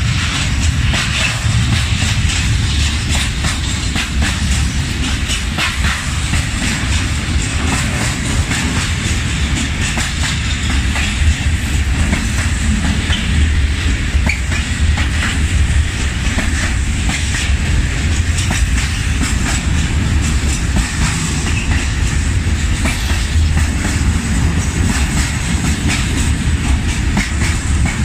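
A train rolling past, with a steady low rumble and many sharp clacks of wheels over rail joints.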